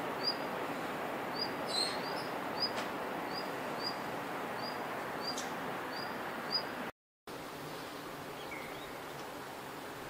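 A small bird repeats a short, high chirp about every half second to a second over steady outdoor background noise. The sound drops out briefly about seven seconds in, then the steady noise returns with only a faint call or two.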